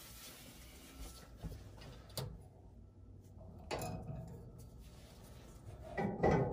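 Scattered sharp clicks and light knocks of metal furnace parts being handled as the gas manifold and valve are fitted, twice about a second and a half apart, with louder handling near the end.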